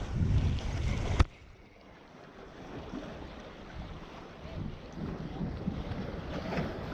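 Wind buffeting the microphone over sea washing on the rocks. About a second in there is a sharp click and the sound drops to a quieter, steady wind and sea background.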